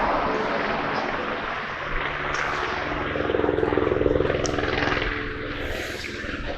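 Border Patrol helicopter overhead: a steady rotor and engine drone with a fast beating chop, swelling louder around the middle and easing off toward the end.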